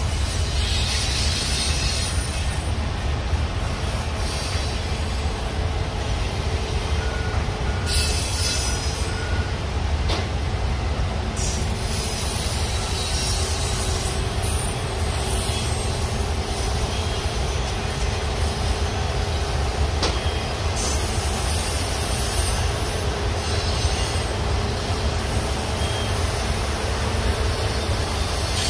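Union Pacific double-stack intermodal train's well cars rolling past: a continuous low rumble of steel wheels on rail, with a high-pitched wheel screech flaring up at times.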